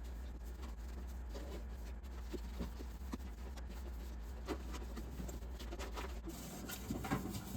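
Scattered light taps and clicks of household items being handled, over a low steady hum that cuts off about six seconds in.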